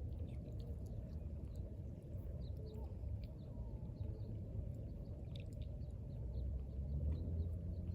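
Outdoor background: a steady low rumble with faint, short bird chirps scattered through it.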